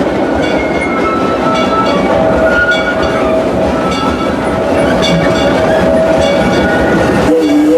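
Steam train running along the track, its wheels and cars rattling with a clickety-clack. Near the end the locomotive's whistle starts to blow, a steady chord of tones.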